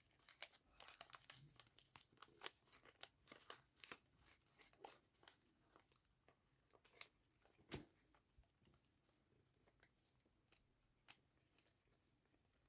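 Faint, scattered rustling and crinkling of paper being handled and pressed into place by hand, with a soft knock about eight seconds in.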